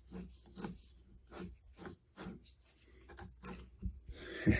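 Rhythmic rubbing strokes, about two a second, as the freed-up air suspension compressor's motor and pump are turned over, its binding eased by fresh lubricant. A few louder knocks near the end.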